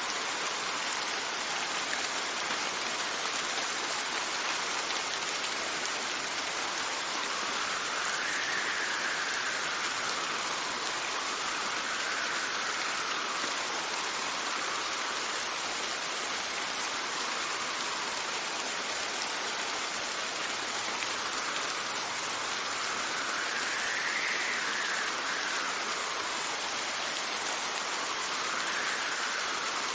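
Steady rain, with wind blowing in gusts over it: a faint whistle that rises and falls several times.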